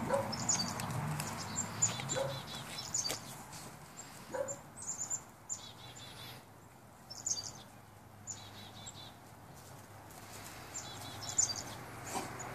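Small songbirds chirping again and again, short high calls and little repeated trills, over a faint steady low hum.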